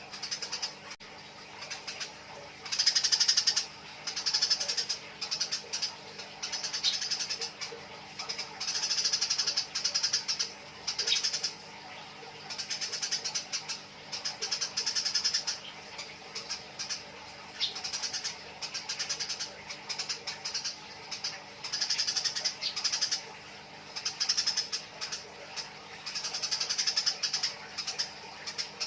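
Eurasian tree sparrows fighting, giving harsh chattering calls in bursts of about a second, repeated every second or two.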